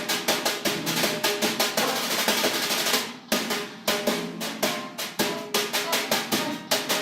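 Drums played in a fast, busy rhythm, many rapid strokes a second, with a short break about three seconds in.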